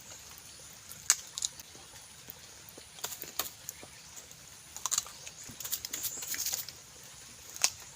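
Close-up eating sounds of someone biting and chewing a salted noni fruit: irregular crisp clicks and smacks, with a short run of wet crunching about six seconds in.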